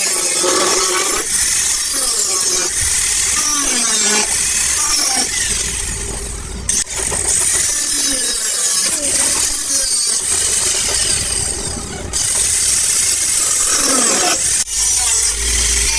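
Power grinder working steel bodywork: a harsh, steady hiss under a whine that keeps sliding down in pitch as the disc bites under load. It breaks off for a moment twice.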